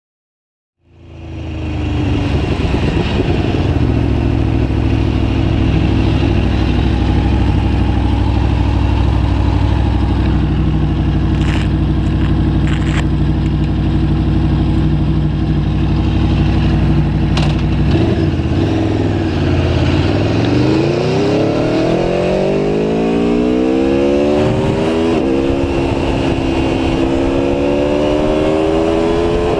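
Aprilia Tuono V4 1100 Factory's V4 engine idling steadily after the sound comes in about a second in, a few light clicks over it. Near the end the motorcycle pulls away, the engine pitch rising as it accelerates, with a brief drop for an upshift before it climbs again.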